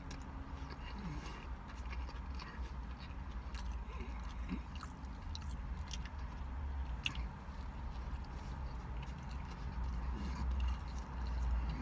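A person chewing a mouthful of slider burger, with scattered wet mouth clicks and smacks, over a steady low hum.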